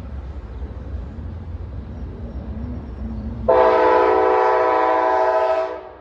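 Train horn sounding one long blast, a chord of several notes, starting about three and a half seconds in and lasting about two seconds, over the low rumble of a train at the station.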